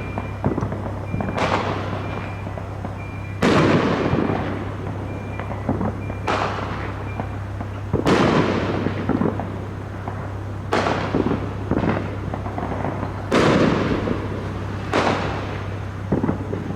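Fireworks going off one after another, a loud bang every two to three seconds, each fading away over a second or more, over a steady low hum.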